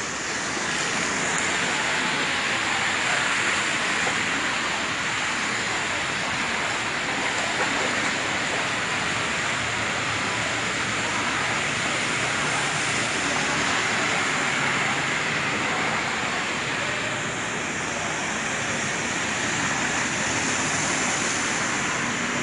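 Steady rush of rain on a flooded street, with vehicles driving through the standing water.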